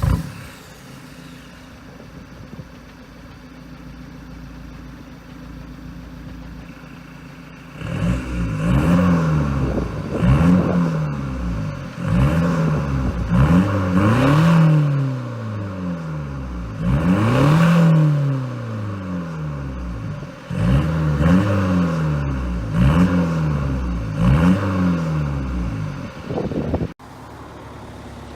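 Vauxhall Vectra C's 1.9 CDTi four-cylinder turbodiesel, straight-piped with a 3-inch straight-through exhaust after the pre-cat, idling for about eight seconds, then revved over and over in quick blips, each rising and falling in about a second and a half, before dropping back to idle near the end.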